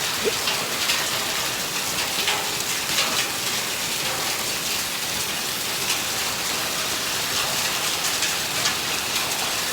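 Hailstorm: hail and rain pelting down in a steady, dense hiss, with many sharp ticks of individual hailstones striking.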